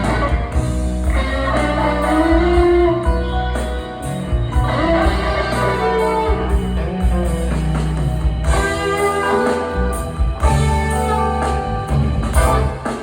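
Live blues band playing a slow instrumental passage: an electric guitar lead with bent, gliding notes over a steady bass and drums.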